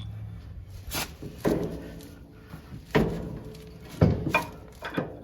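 Sharp metal knocks and clanks, about six over a few seconds, each ringing briefly, as a steel snowplow mount is worked into line for its pin.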